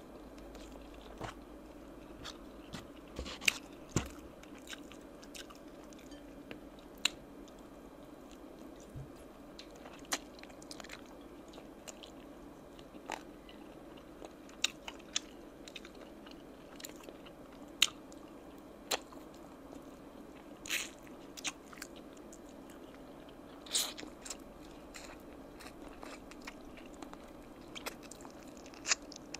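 Close-miked eating sounds of oven-roasted chicken wings and rice eaten by hand: chewing, with short sharp clicks and smacks scattered irregularly throughout. A faint steady hum sits underneath.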